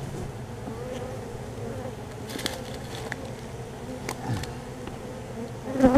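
Honey bees buzzing steadily in the air around an opened colony being moved into a nuc box, with a few short knocks, the loudest near the end.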